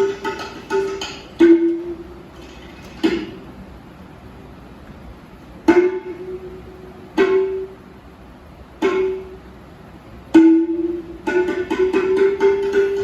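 Live Rajasthani folk music: sharp, ringing notes struck at much the same pitch, a quick run at the start and again near the end, with single strikes a second or more apart in between.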